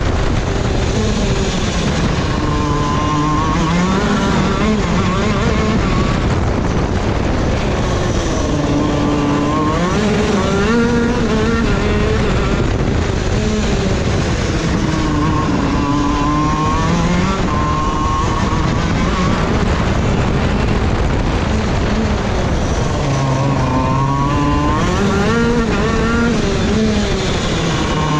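A KZ2 shifter kart's 125cc two-stroke engine racing, its pitch climbing and dropping again and again as it accelerates out of corners and falls back on braking.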